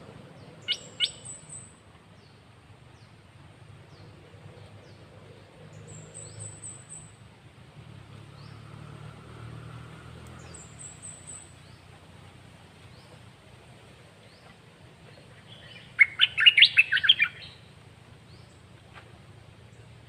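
Caged red-whiskered bulbul calling: two sharp chirps about a second in, then a loud, rapid burst of song phrases a little after the middle. Faint, thin high notes come in between.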